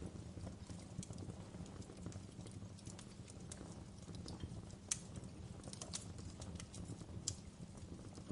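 Fireplace fire crackling: a low steady rumble under irregular sharp snaps and pops, with a few louder pops about five, six and seven seconds in.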